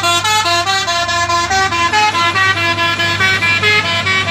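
A melodic multi-tone truck horn playing a quick tune of changing notes, about five a second, over a steady low engine hum.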